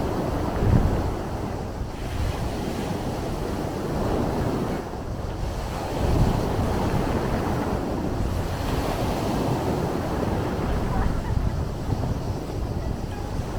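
Sea waves washing in a continuous rush, swelling louder about a second in and again about six seconds in, with wind rumbling on the microphone.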